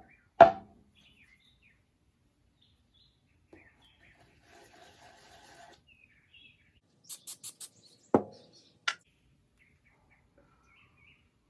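Small handling sounds: a sharp click about half a second in, a faint scratching, then a rapid run of four high ticks and two more clicks near the end. Faint bird chirps sound in the background.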